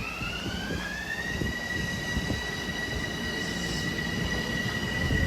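Metro-North commuter train on the move: a high electric whine in several tones rises in pitch for about the first second, then holds steady over a low rumble of wheels on the rails.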